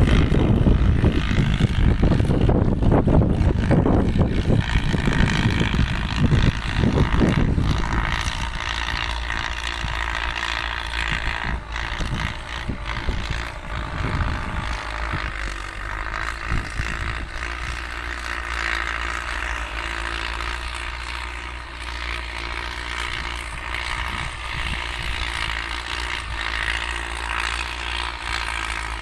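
Ford farm tractor engines running steadily under load while disc ploughing, a continuous drone with a heavier low rumble over the first eight seconds or so.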